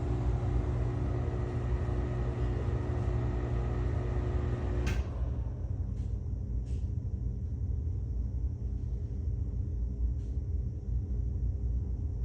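Older NuTone bathroom exhaust fan running with a steady low rumbling hum and rattle, typical of those models. About five seconds in there is a click and the higher part of the sound drops away, leaving the low rumble.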